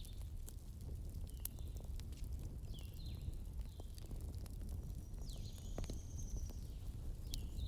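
Fireplace crackling: scattered sharp pops over a steady low rumble, with short high chirps that fall in pitch, repeating every second or so.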